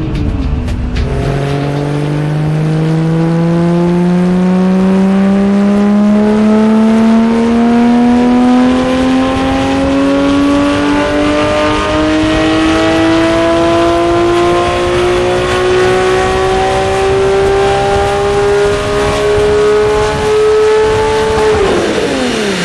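Porsche 997 GT3 flat-six through a SharkWerks Track Exhaust, revving in one long, unbroken pull that climbs slowly and steadily in pitch for about twenty seconds. Near the end the pitch drops sharply as the throttle closes.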